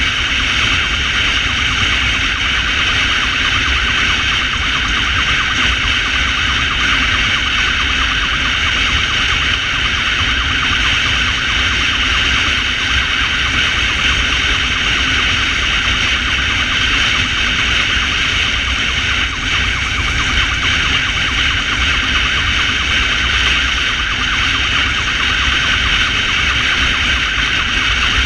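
Motorcycle ambulance under way with its siren sounding continuously, over a steady rumble of wind and road noise on the microphone.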